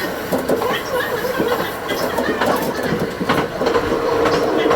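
Diesel railcar running along the track, wheels clicking and clattering over the rail, with a steady tone coming in about three and a half seconds in. Played back at double speed, so it sounds faster and higher than in life.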